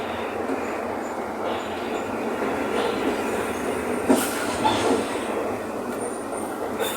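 Mercedes-Benz OF-1519 BlueTec 5 bus running, heard from inside the cabin: a steady engine and road rumble mixed with body rattle, with a few sharp knocks about four seconds in.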